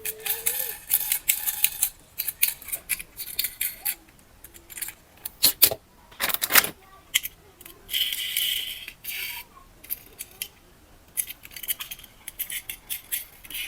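Irregular clicks, small rattles and stretches of crinkling from objects being handled by hand.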